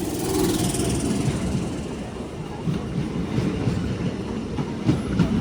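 Electric multiple unit (EMU) suburban train passing, its wheels rumbling steadily on the track, with a few sharp clacks over the rail joints near the end.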